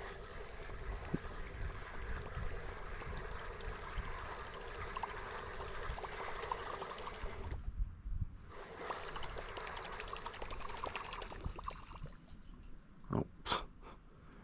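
Water trickling and splashing in a steady wash that drops out briefly about eight seconds in and fades near the end.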